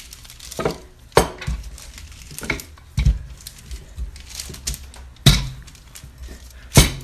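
Dough being rolled out on parchment paper with a rolling pin on a kitchen counter: a faint rustle broken by several sharp knocks at uneven intervals.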